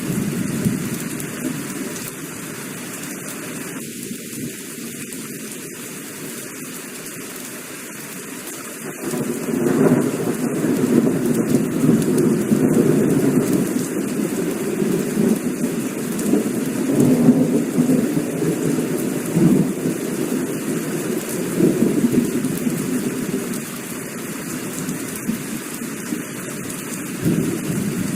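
Heavy rain falling steadily. About a third of the way in, a long roll of thunder builds and rumbles on for over ten seconds before easing off.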